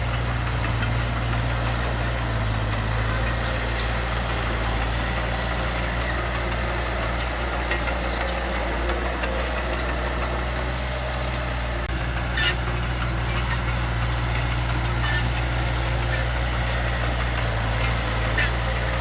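Heavy diesel engine of earthmoving machinery running steadily, with a few short sharp clanks.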